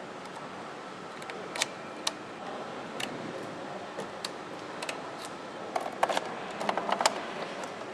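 Steady factory-floor hum with scattered sharp clicks and taps, a quick flurry of them about six to seven seconds in.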